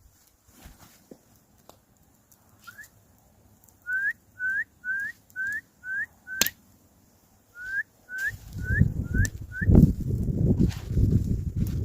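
A series of short, rising whistled notes, about two a second, in two runs with a pause between; from about eight seconds in, low rustling and crunching noise comes in under them.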